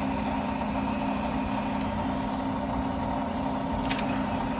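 Power feed on a Bridgeport Series 1 vertical milling machine running, driving the table with a steady motor hum. A short sharp click comes near the end.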